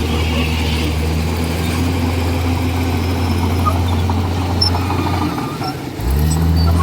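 Komatsu D41E bulldozer's diesel engine running steadily. About five seconds in it drops away for a moment, then comes back up in pitch and level.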